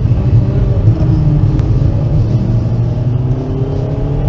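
Volkswagen Golf V's 1.4-litre petrol four-cylinder engine heard from inside the cabin, accelerating out of a corner with its pitch rising slowly and steadily, over a heavy low rumble of engine and road.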